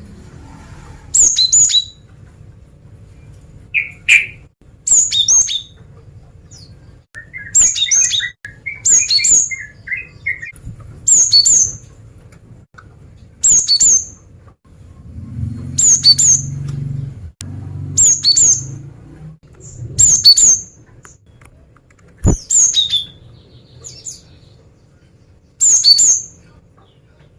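Female cinereous tit (gelatik batu) calling: short, very high double chirps repeated every second or two, with bursts of lower chattering notes early on. A low rumbling noise runs for a few seconds midway, and there is one sharp click near the end.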